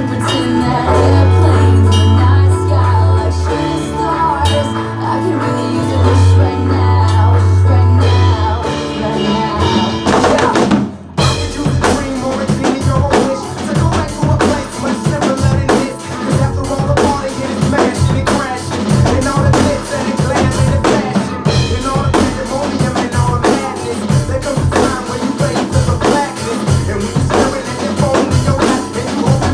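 Recorded pop song with long, held bass notes. After a brief drop about eleven seconds in, a drum kit played along to it comes in with a steady, busy beat of bass drum, snare and rimshots.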